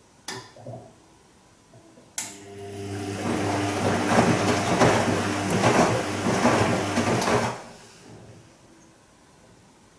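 Bosch Serie 2 Vario Perfect front-loading washing machine on its Silk programme: a click, then about two seconds in the drum motor starts with a hum and turns the drum, washing water and laundry swishing in a steady rhythm. After about five seconds the drum stops. This is the gentle stop-start tumbling of a delicates wash.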